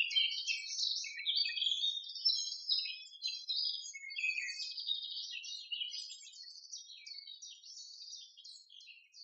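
Small birds chirping and twittering in a dense, unbroken run of quick high notes, thinning slightly toward the end.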